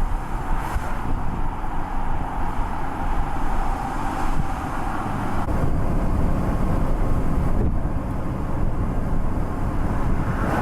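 Vehicle driving at road speed, heard from inside the cab with the windows open: steady road and wind noise with a heavy low rumble.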